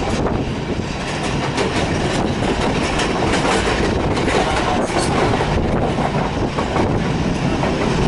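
Passenger train running along the track, heard from aboard: a steady rumble of wheels on rails with scattered clicks.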